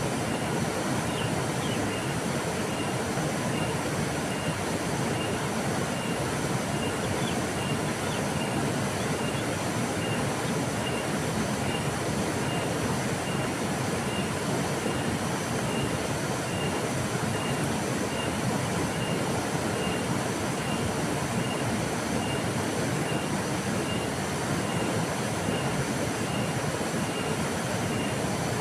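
Flowing river: a steady, unbroken rush of water. Over it a faint, high pip repeats at an even pace, about three every two seconds.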